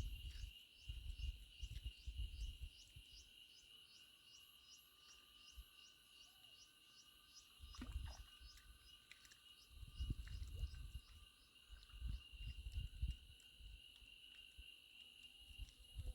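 Night insects, crickets by the sound, chirping: a steady high trill under a faster pulsing chirp, about three pulses a second, that fades out after about nine seconds. A few low muffled rumbles come and go.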